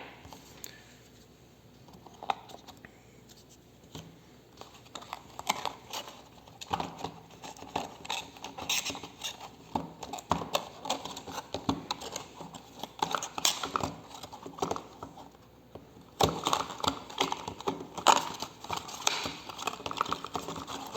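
A small cardboard box being opened and its packaging handled: irregular clicks, scrapes and rustling, sparse at first and busier and louder for the last few seconds.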